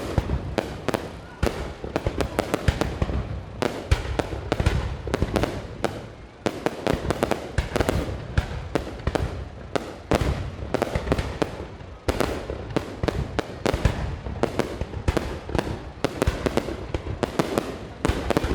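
Aerial fireworks going off in rapid, almost unbroken bangs and crackles, several a second, over a continuous low rumble.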